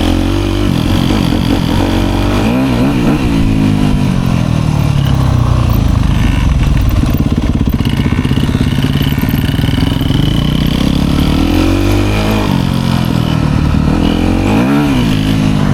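Dirt bike engine running under throttle, its pitch rising and falling as the rider works the throttle, with sharp revs about three seconds in and twice near the end.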